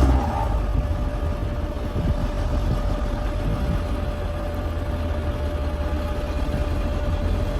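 Bulldozer's diesel engine running steadily, with a thin steady tone over it.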